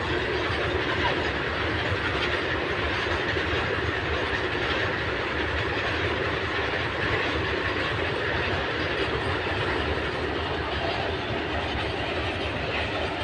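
A train running along the track: a steady, continuous rumble and rattle of wheels and cars on the rails.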